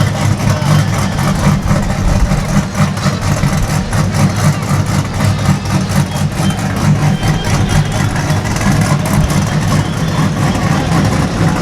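Truck engine running at a steady, loud low rumble, idling with no clear revving.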